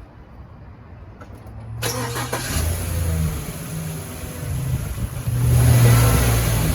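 Chevrolet Express 2500 van's engine cranked by the starter and catching about two seconds in, then running. It is revved once near the end, the loudest moment, and then drops back.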